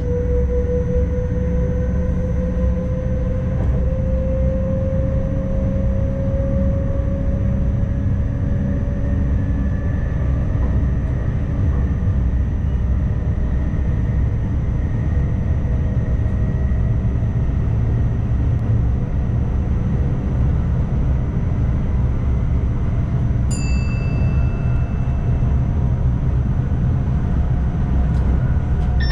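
Inside the cab of an ICMm electric multiple unit under way: a steady low rumble of the running gear, with a traction-motor whine that rises slowly in pitch over the first several seconds. About 24 s in, a short high electronic beep sounds in the cab for about two seconds.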